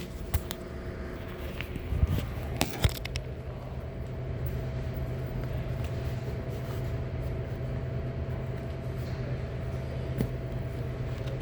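Metal locker being opened and rummaged through: a few sharp clanks and knocks in the first three seconds over a steady low hum.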